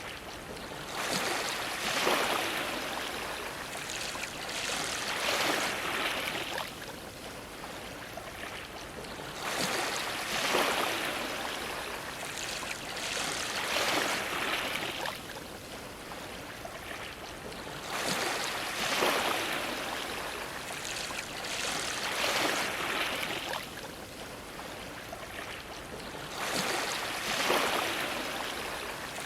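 Ocean waves splashing against a dock, the wash rising and falling in surges every few seconds.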